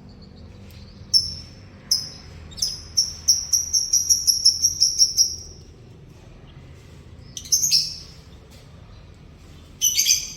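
Yellow domestic canary singing: separate clear high notes that speed up into a fast trill from about one to five seconds in, then short dense bursts of song near eight seconds and again at the end.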